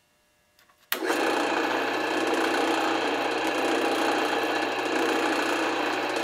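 Drill press switched on about a second in with a couple of small clicks, its motor then running steadily at speed with a hum and a whir.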